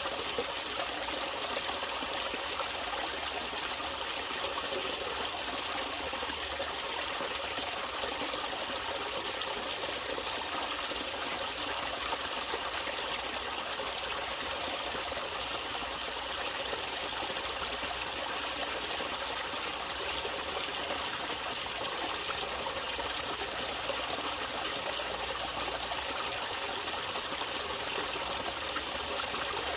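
Natural running water flowing and trickling steadily, with no change in level.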